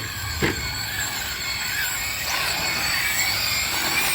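Electric RC short course trucks running on brushless motors with sensorless ESCs: a steady high electric whine that shifts in pitch as the throttle changes, over tyre and dirt noise. A single short knock comes about half a second in.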